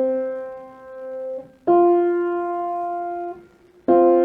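Piano playing an ear-training interval of a third: a lower note, then a higher note about a second and a half later, then the two struck together near the end.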